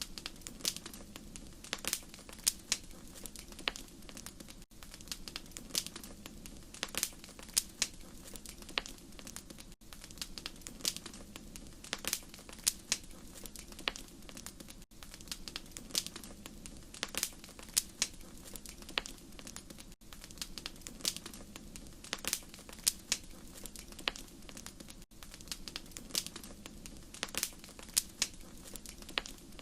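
Wood fire crackling in a fireplace: irregular sharp pops and snaps of varying loudness over a low, steady rumble of burning.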